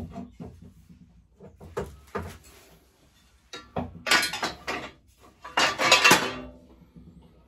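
Metal parts and tools being handled on a workbench: a string of knocks and clinks, then two longer, louder rattling scrapes about four and six seconds in.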